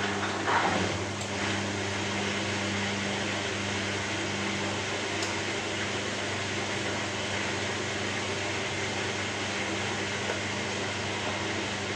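Steady white noise, an even rushing sound with a low machine hum beneath it.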